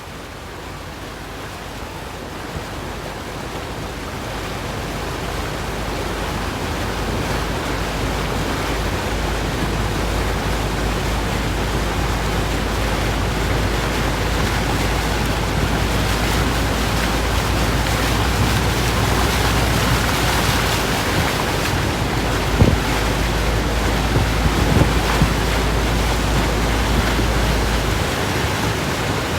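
Hurricane-force wind blowing hard and steadily, a rushing hiss that builds over the first several seconds, with a low rumble of the wind buffeting the microphone. A couple of brief knocks come in the later part.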